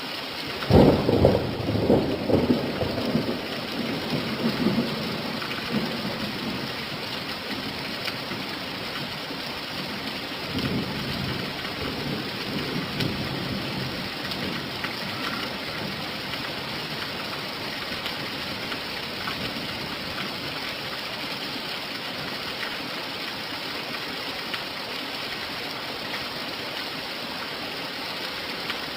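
Steady rain falling, with a loud rumble of thunder about a second in that rolls and fades over several seconds, and a weaker rumble roughly ten seconds in.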